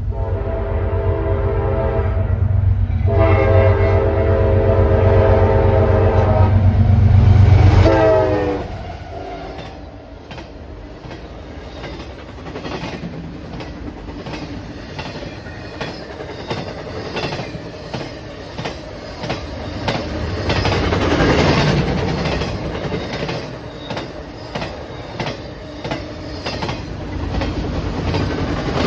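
Train passing at a crossing. The locomotive horn sounds two long chords over a heavy diesel rumble, and the horn's pitch drops as the locomotive goes by about eight seconds in. Then comes the steady clickety-clack of the cars' wheels over the rail joints as they roll past.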